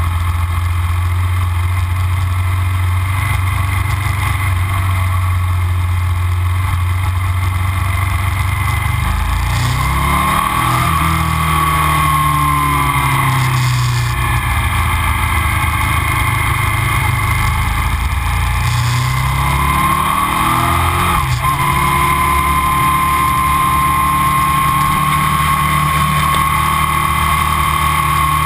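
A 2000 Aprilia RSV 1000 V-twin with Arrow silencers running on the move, heard from the bike. The engine holds a steady note, then its speed drops and picks up again twice, about a third of the way in and again around two-thirds of the way, with a whine rising and falling alongside.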